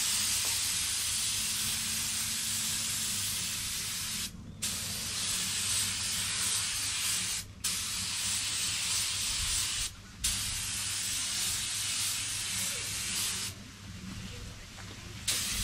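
Compressed-air paint spray gun hissing in long passes as colour is sprayed onto a car body panel, the trigger let go briefly about four, seven and a half and ten seconds in, and the spray quieter for a moment near the end. A steady low hum runs underneath.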